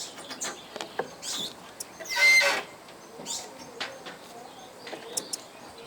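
Birds calling: scattered short chirps and clicks, with one loud, harsh call lasting about half a second about two seconds in.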